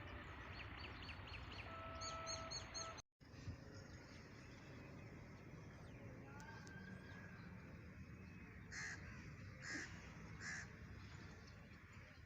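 Quiet outdoor ambience with small birds chirping, then a crow cawing three times near the end. The sound cuts out for a moment about three seconds in.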